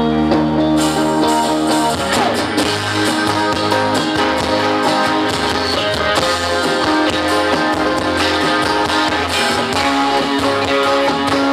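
Live band music with electric guitar, playing an instrumental passage.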